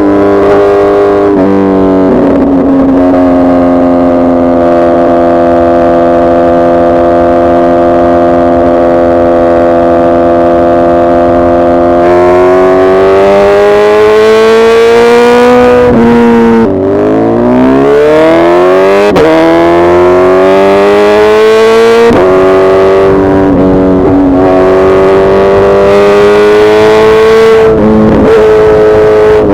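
Suzuki Hayabusa's inline-four engine running at steady revs, then pulling harder with its pitch rising. The pitch drops suddenly a little past halfway and again a few seconds later, like gear changes, and climbs back up after each drop.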